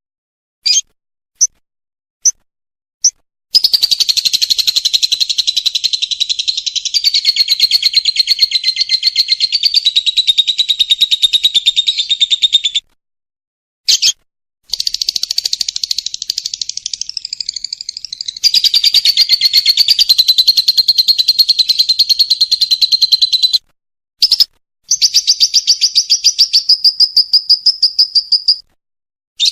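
Lovebird's 'ngekek' call: a few short separate chirps, then three long bouts of very fast, high-pitched trilling chatter, the longest about nine seconds, with brief breaks between.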